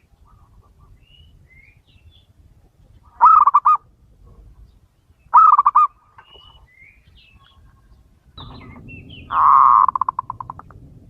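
Male zebra dove cooing: three loud rolling, stuttering coos, the last the longest and trailing off in quick pulses. Faint chirps from other small birds in between.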